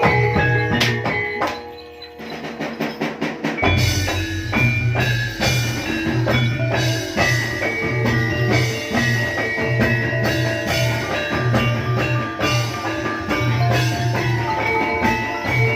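Live East Javanese jaranan music: a gamelan-style percussion ensemble of struck metal keys and drums. About two seconds in it drops back to a quick run of strokes, then the full ensemble comes back in near four seconds with a steady, repeating low drum beat.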